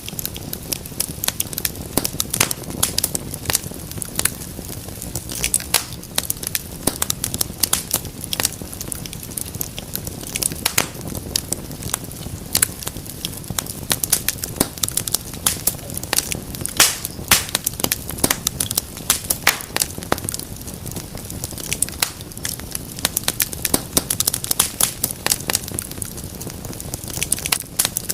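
Wood fire in a fireplace crackling: frequent, irregular sharp pops and snaps over a steady low noise of the burning.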